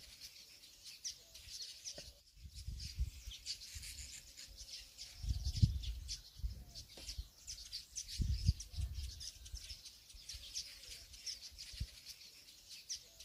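Small birds chirping over and over in short high notes, with a few low rumbles underneath.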